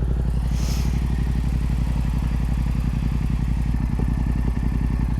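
Yamaha MT-07's parallel-twin engine running at steady revs through an Akrapovič Racing Line exhaust, a low even pulsing with no change in pitch.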